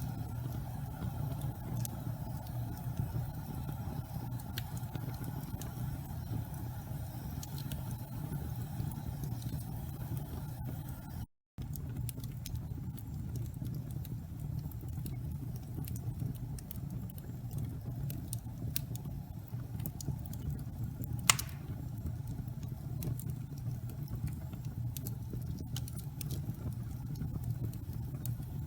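Wood fire burning in a fireplace: a steady low rumble of flames with scattered small crackles, and one sharper pop a little past twenty seconds in. The sound drops out for a split second about eleven seconds in.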